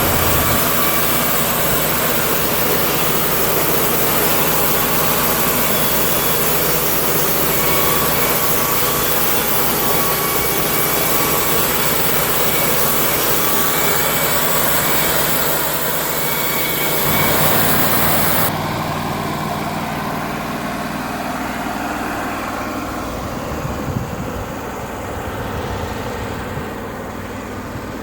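Wood-Mizer LT40 Hydraulic band sawmill running, its band blade cutting through a large ponderosa pine log with a loud, steady hiss over the engine. About two-thirds of the way through, the cutting hiss stops abruptly and the mill's engine runs on more quietly.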